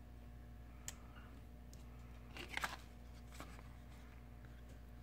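Faint handling noises of small phone parts being worked on: a click about a second in, then a short cluster of clicks and rustling about two and a half seconds in, over a steady low hum.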